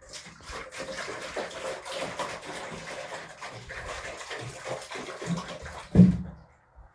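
Water sloshing and splashing during washing, with many small knocks, ending in one loud thump about six seconds in.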